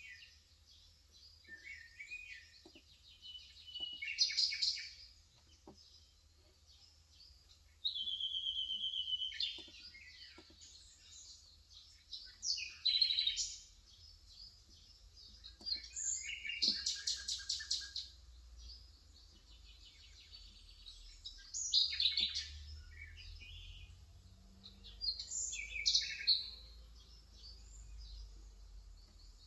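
Birds chirping and trilling in short bouts every few seconds, with one fast trill about halfway through. Faint, scattered key taps from an electrocapacitive (Topre-style) keyboard sit underneath.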